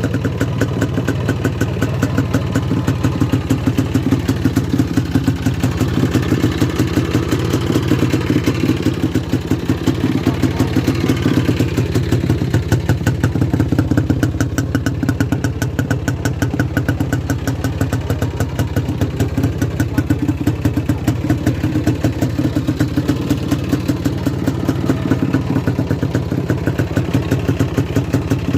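Motorcycle engine idling close by, running steadily with an even, loping beat of about three pulses a second.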